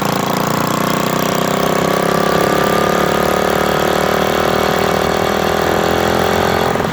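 Motorcycle engine running with a steady note that slowly rises in pitch, then falls away near the end.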